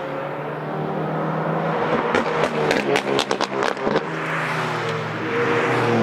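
Porsche 992 GT3 RS's naturally aspirated flat-six running through a loud aftermarket Brillsteel Edizioni Corsa exhaust. About two seconds in comes a rapid string of sharp pops from the exhaust, and then the engine pulls again.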